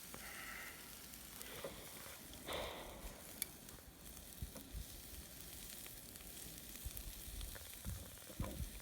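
Shashlik meat sizzling faintly over a fire, a soft steady hiss with scattered small crackles, and a few soft low thumps near the end.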